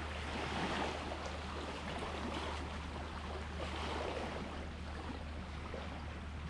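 Small sea waves washing and lapping at the shore, swelling about half a second in and again around four seconds in, over a steady low hum.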